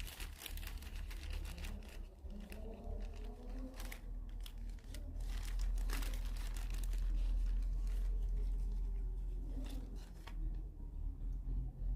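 Crinkling and rustling with scattered light clicks as a carburetor gasket and small parts are handled and test-fitted, over a steady low rumble.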